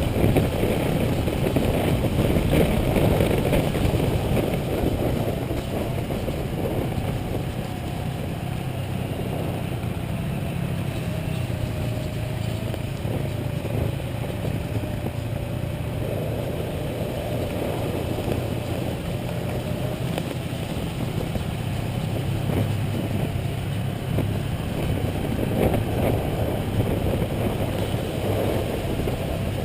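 Motorcycle engine running steadily while riding, with a faint whine that wavers slightly in pitch through the middle.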